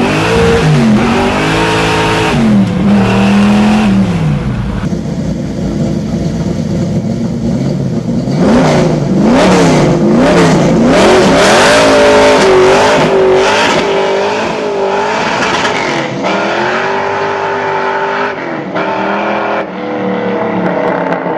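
Naturally aspirated 572 cubic inch big-block Chevrolet V8 revving hard again and again, its pitch climbing and dropping with each blip of the throttle.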